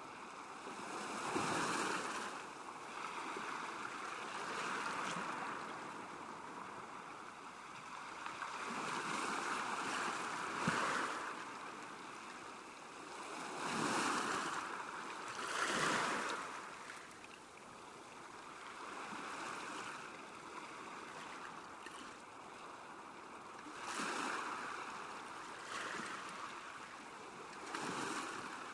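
Small waves lapping and splashing against a lakeshore, rising and falling in irregular swells every few seconds.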